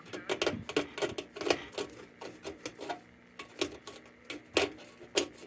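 A small tool picking and scraping at caked-on paint on a lantern's sheet-metal body: irregular sharp clicks and ticks, several a second, a few louder than the rest.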